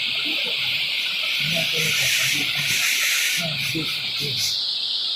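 Heavy rain falling, a loud, steady hiss, with a few sharper splashes in the middle.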